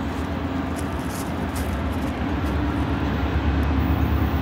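Diesel freight locomotives approaching on the main line: a steady low engine rumble that grows slowly louder.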